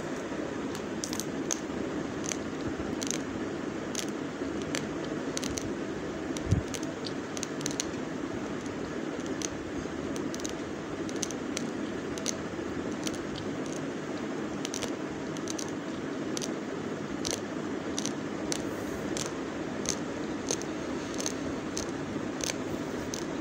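Raw basmati rice grains crunching as they are chewed: sharp, irregular cracks, a few a second, over a steady background hum, with one dull thump about six seconds in.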